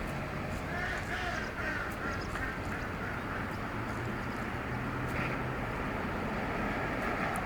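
A bird gives a quick series of about six short, nasal calls about a second in, over steady background noise.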